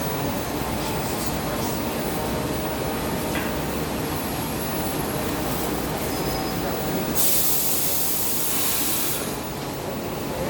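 New York City subway train running on the track through the station: steady wheel-and-rail noise. About seven seconds in, a loud hiss of air lasts about two seconds.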